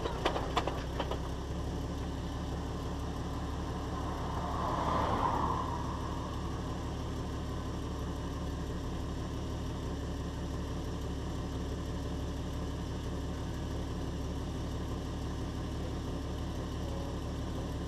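A Jeep Wrangler YJ's engine idling steadily, heard from beneath the vehicle by the rear axle. A few sharp clicks come in the first second, and a brief rush of noise swells and fades about five seconds in.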